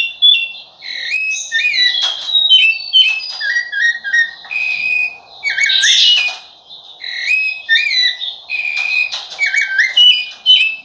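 Rufous-bellied thrush (sabiá-laranjeira) singing: a run of short, clear whistled phrases, many sliding or stepping in pitch, with brief gaps between them.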